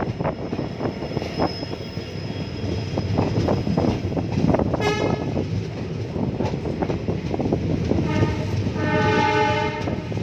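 Train running on the rails with a dense clatter of wheels over the track, and its horn sounding: a short toot about five seconds in and a longer blast near the end.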